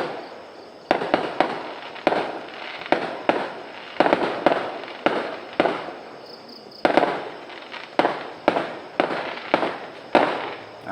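Fireworks exploding in a rapid, irregular series of sharp bangs, each trailing off with an echoing tail, with a brief lull around the middle.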